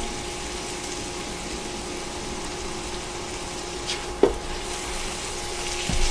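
Diced chicken sizzling in oil in a frying pan over medium heat, with a steady hum underneath. A sharp knock sounds about four seconds in and another near the end.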